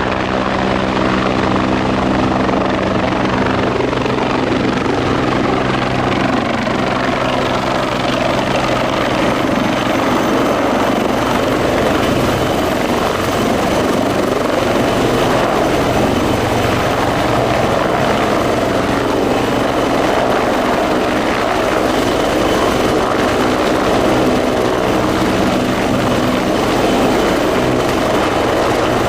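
Bell 430 twin-turbine helicopter running, its rotor and engines making a loud, steady sound. For the first several seconds a set of steady humming tones stands out, and after that the sound turns into a rougher rushing noise.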